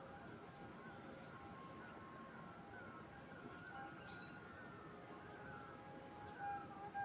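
Wild birds singing: a high, quick, warbling phrase comes four times, with softer, lower, falling calls repeating throughout over a faint background hiss.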